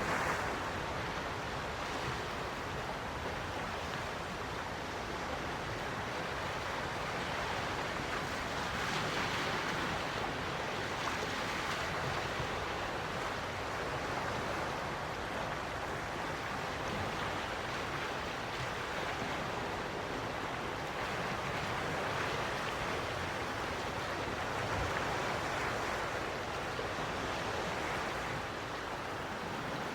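Quiet sea waves washing ashore, a continuous soft wash that swells gently now and then.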